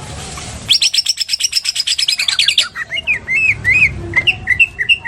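Cucak ijo (greater green leafbird) singing a lovebird-style 'ngekek': a fast, loud chattering trill of about ten notes a second starting about a second in. It breaks off after about two seconds into a run of short whistled chirps that bend up and down.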